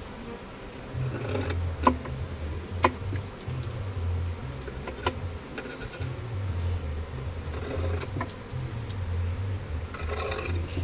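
Honeybees buzzing around an open hive over a low, uneven rumble, with a few sharp knocks in the first five seconds.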